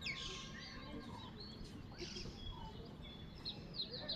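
Wild birds chirping and calling over a low background rumble. A quick falling call comes at the start, and a rapid run of short chirps comes near the end.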